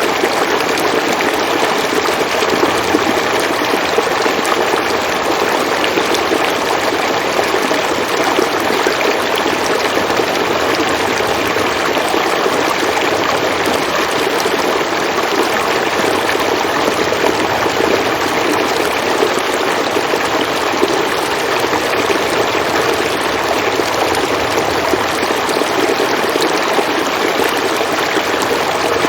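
River water flowing steadily over rocks, a continuous even rush and babble.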